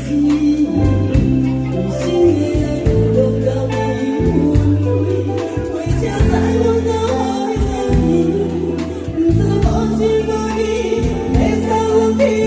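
Enka song performed live: a singer's voice over a musical accompaniment with a pulsing bass line and a steady beat.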